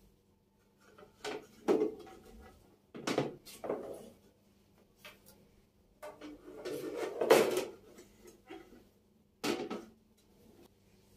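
Kitchen storage being handled: several sharp knocks and clatters of drawers and containers, a longer, louder stretch of sliding and clatter past the middle, and one more knock near the end.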